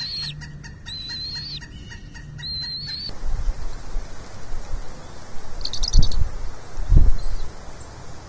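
Bald eagle chick calls: a run of high, thin calls, each under a second, repeated about once a second. About three seconds in the background changes suddenly and the calls stop; two low thumps follow, with one short high call near the first thump.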